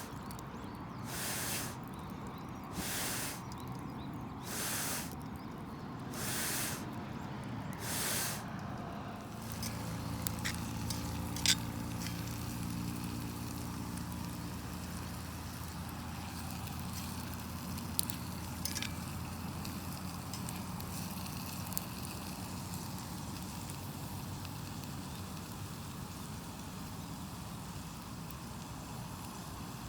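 About six regular puffs of blown air hiss roughly every second and a half, like someone blowing on a wood fire, and stop about nine seconds in. A steady low hum follows, with a few sharp snaps from the fire.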